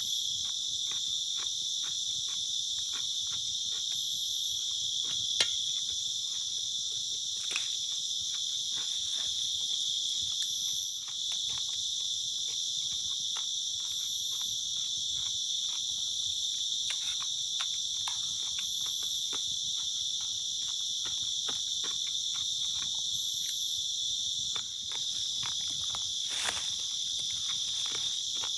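Night insect chorus: a steady, layered high-pitched buzzing and trilling that holds throughout, with a short high note repeating every four or five seconds. Scattered small clicks and ticks sound close by.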